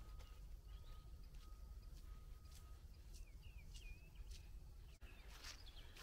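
Quiet outdoor ambience with a low background rumble, a faint thin steady tone through the first three seconds, and a few short bird chirps between about three and four and a half seconds in.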